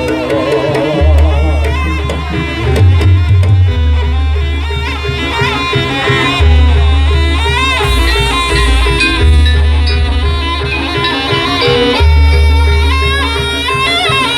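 Jaranan Buto ensemble music: a reedy shawm (slompret) plays a wavering, ornamented melody over drumming and long, deep low strokes that recur every few seconds.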